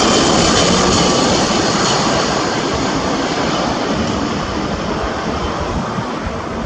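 Airbus A321's twin CFM56 turbofan jet engines, loud and fading steadily as the airliner moves away, with high whining tones that fall slightly in pitch.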